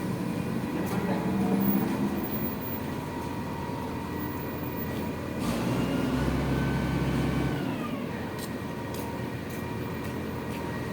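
Dump truck engine running, louder and deeper for about two seconds midway, with a high whine that rises and then fades.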